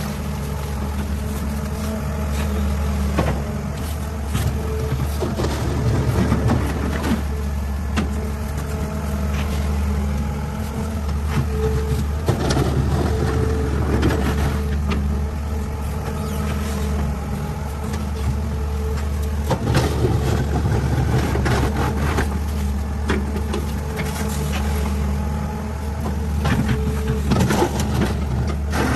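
Heavy diesel engine of a Caterpillar 6015B hydraulic mining excavator working a loading cycle: a steady low drone broken by repeated metallic clanks and knocks.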